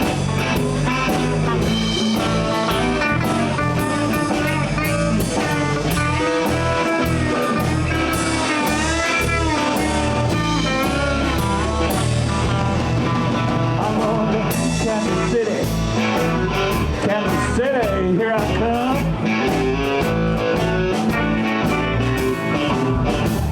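Live blues band playing an instrumental passage: an electric guitar lead with bent notes over bass and drums.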